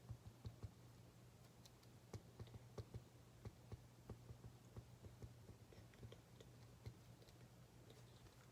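Faint, irregular small clicks and taps from desk work during quiet study, over a low steady hum.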